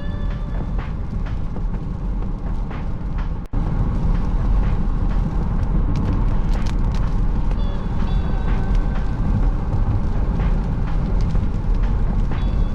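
Vehicle driving with a steady, heavy low rumble of road and engine noise. The rumble cuts out for an instant about three and a half seconds in and is louder after. Faint short tones come and go over it.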